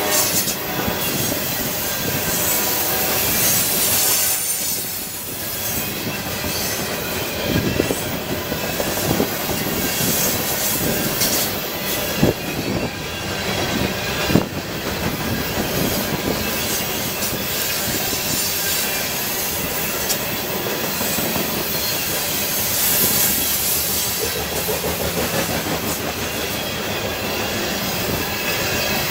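Norfolk Southern freight train passing, its cars rolling by with a steady noise and a few sharp clanks about 8, 12 and 14 seconds in.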